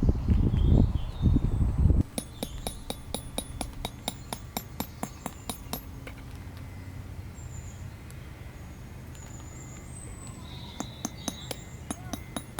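Strong wind rumbling on the microphone, cut off abruptly about two seconds in. Then birds chirping over two runs of quick light clicks, about four a second.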